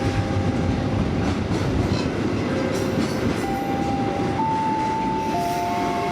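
Freight train of steel-coil and container wagons rolling past close by: a steady heavy rumble of wheels on rail with faint clicks, and thin steady squeals over it that shift in pitch now and then.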